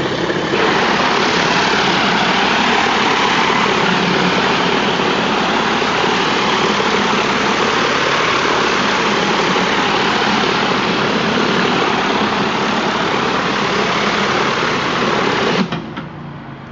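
Cold-water pressure washer spraying concrete: a loud steady hiss of water over the rig's engine running steadily. The spray starts about half a second in and cuts off suddenly near the end, leaving the engine running on its own.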